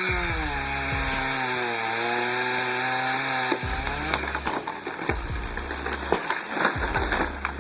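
A chainsaw running as it cuts, its engine pitch sagging under load and picking back up, then stopping about three and a half seconds in. Scattered short cracks follow.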